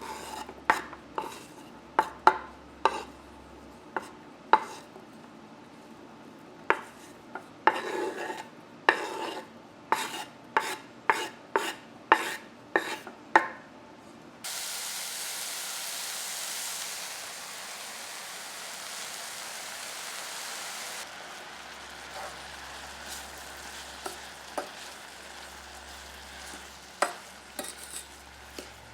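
Repeated sharp knocks of utensils and food on kitchenware, then a steady sizzle that starts suddenly about halfway through and drops to a quieter hiss some six seconds later, with a few more knocks.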